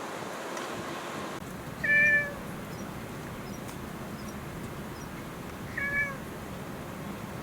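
Domestic cat meowing twice, about four seconds apart: a loud meow about two seconds in and a shorter, softer one near the end.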